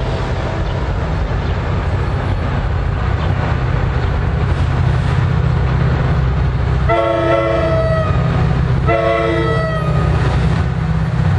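Passenger train locomotive running with a steady low rumble, sounding two short blasts on its chord-like multi-note horn about seven and nine seconds in.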